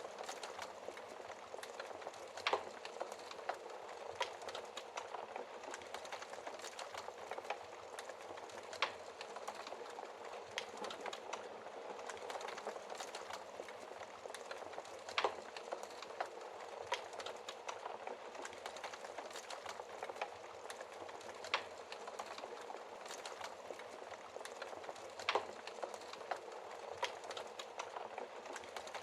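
Wood fire in a fireplace crackling steadily: a continuous soft hiss of burning wood with frequent small crackles, and about five sharper, louder pops a few seconds apart.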